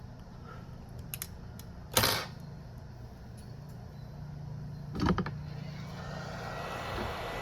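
Bench repair handling: a few light clicks, then two sharp clatters of tools or phone parts being set down or knocked, about three seconds apart, over a low steady hum. Near the end a steady hiss with a thin whistling tone starts up.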